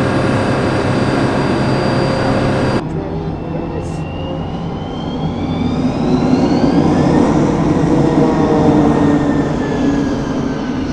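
Jet aircraft engine noise: a steady whine at first, then, after an abrupt change about three seconds in, a jet engine whose whine rises in pitch and grows louder toward the middle before easing off.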